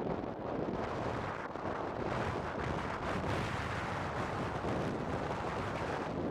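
Blizzard wind rushing and buffeting the microphone in a steady, gusty roar.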